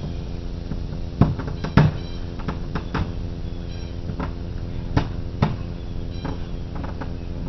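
A series of irregular knocks and taps on wood, two louder ones close together early on and a few more spread out.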